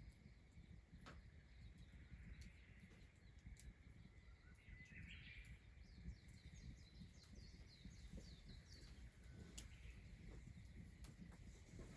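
Faint wild birds chirping, with a run of short calls about four to seven seconds in, over a low steady background rumble and a few scattered clicks.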